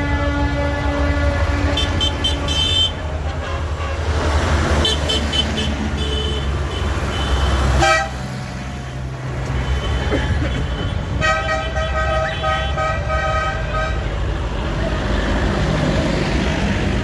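Tractor horns tooting again and again over the steady low rumble of tractor engines going by. One long horn note sounds at the start, and a rapidly pulsing horn sounds for about three seconds past the middle.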